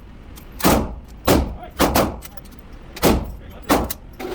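Handgun shots on a shooting range: about five sharp reports, spaced roughly half a second to a second apart, each with a short echo.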